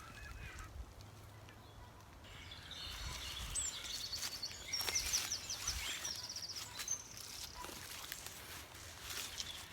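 Birds singing: high chirps and a quick trill from about three and a half to seven seconds in, over a steady low rumble.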